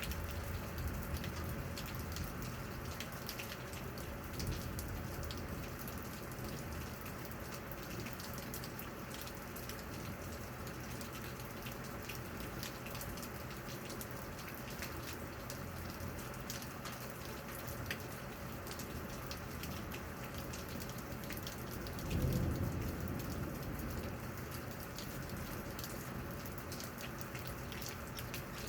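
Steady rain falling, with many small drops ticking close by. About 22 seconds in, a brief low rumble of thunder rises over it.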